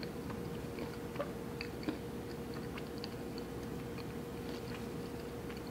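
Close-miked chewing of a chocolate-covered peanut butter brownie with peanut butter cream: soft, moist mouth noises with small scattered clicks and smacks. A faint steady hum runs underneath.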